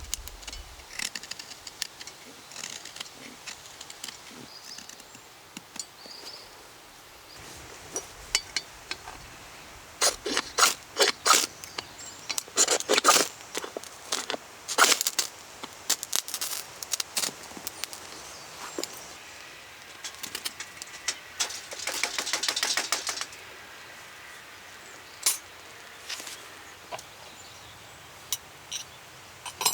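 Sharp cracks and snaps of dry sticks and kindling being broken up for a campfire, coming in bunches midway through with a quick run of small crackles later.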